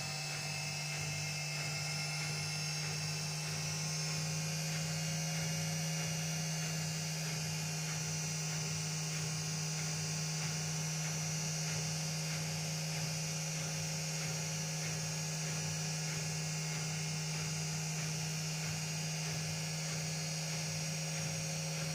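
Washing machine spinning at full speed on its spin cycle, a steady even hum of motor and drum that holds level throughout. The replacement motor appears to be reaching the machine's rated 1400 rpm spin.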